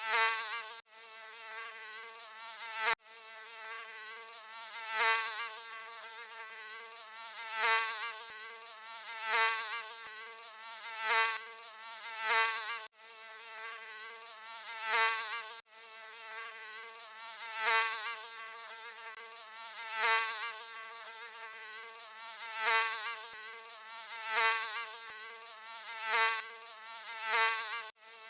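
Mosquito wingbeat buzz, a high whine that wavers in pitch and swells and fades about every two seconds as if the insect flies close past and away, with brief sharp breaks where the recording loops.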